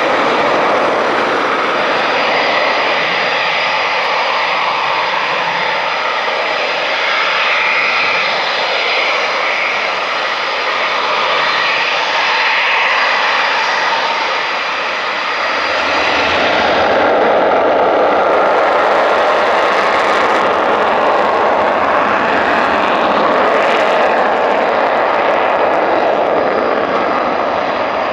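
Eurofighter Typhoon's twin EJ200 turbofan jet engines running, a loud steady rush of jet noise with a thin high whine above it. About sixteen seconds in, the sound grows louder and fuller in its lower range.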